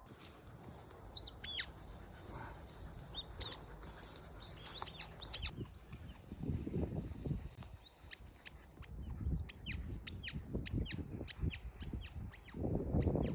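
Small birds chirping: short, high, downward-sliding calls, a few at a time in the first half, then a quick run of chirps in the second half. Low rumbling noise swells twice under them, about six seconds in and again near the end.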